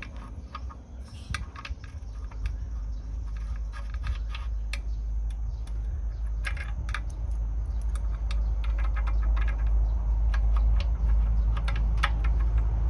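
Irregular light metallic clicks and clinks from an engine's timing chain and sprockets being handled and fitted by hand. A low rumble runs underneath and grows gradually louder.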